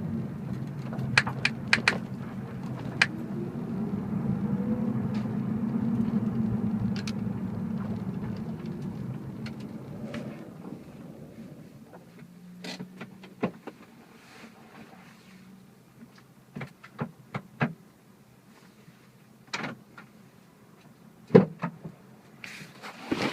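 BMW E46 running with a steady low drone that fades away over the first dozen seconds. Short, sharp clicks come from the rear at irregular intervals throughout, the loudest near the end: the rear clicking noise the owner is chasing.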